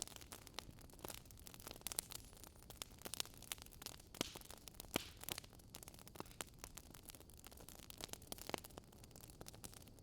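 Wood fire crackling, with irregular sharp pops and snaps of varying loudness over a soft steady hiss.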